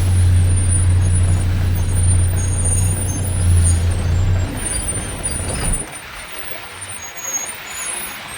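Truck engine running with a steady low drone, which fades and drops away about six seconds in, leaving a quieter rumble.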